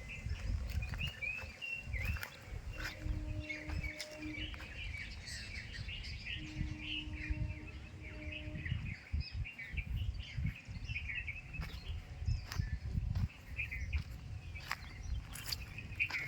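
Many birds chirping and twittering continuously in short, quick calls over a low rumbling background noise, with a faint steady hum coming and going twice.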